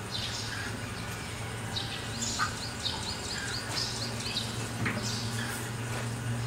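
Small birds chirping, with a quick run of short repeated chirps in the middle, over a steady low hum.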